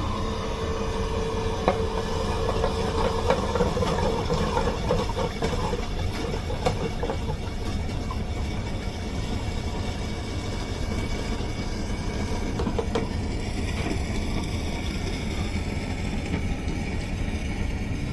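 Shop vac running steadily, sucking on an air conditioner's condensate drain line to pull out the clog. A wavering tone with a few clicks sits in the first several seconds, and a steadier, higher tone comes in near the end.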